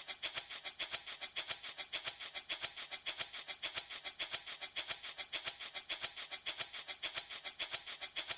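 Handmade rattle shaken steadily back and forth, a bright, hissy shaker sound at about six strokes a second with alternating stronger and weaker strokes.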